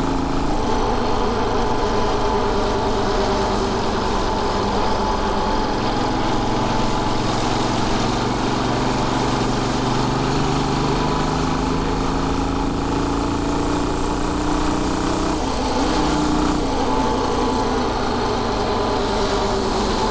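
Royal Enfield Bullet 500's single-cylinder four-stroke engine running under way on the road. Its pitch climbs slowly through the middle, changes about fifteen seconds in, then climbs again.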